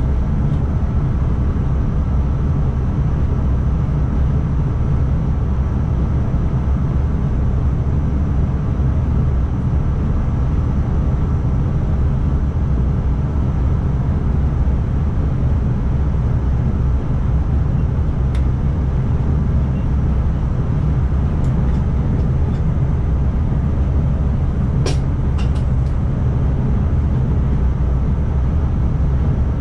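Steady low rumble of an NS ICMm (Koploper) electric multiple unit running along the track, heard from inside the driver's cab, with a few faint short clicks in the second half.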